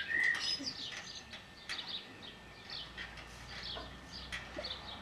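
Small garden birds chirping, with short, irregular high chirps throughout and a brief whistled note near the start.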